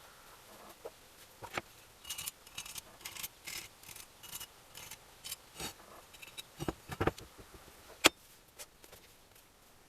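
Small metal engine parts and hand tools clicking and scraping as an engine is assembled: an irregular run of light clicks and scrapes, with one sharp click about eight seconds in.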